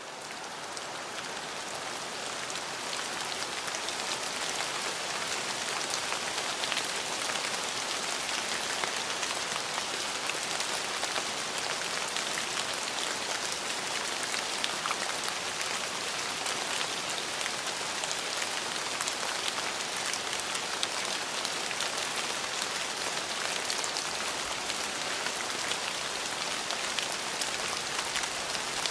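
Steady rain falling on a surface: an even hiss dotted with fine drop ticks, fading in over the first few seconds and then holding steady.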